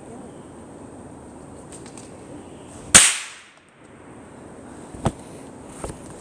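A small firecracker going off with one sharp, loud bang about three seconds in, followed by two fainter cracks near the end.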